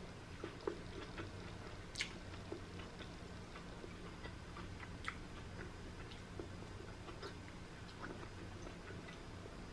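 Quiet chewing with small wet mouth clicks and smacks, a sharper click about two seconds in, over a steady low hum.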